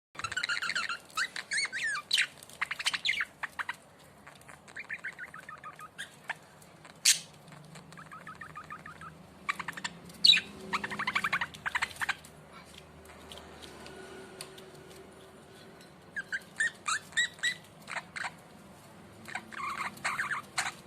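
Budgerigar chirping and warbling softly in short runs of rapid chirps, with pauses between the runs.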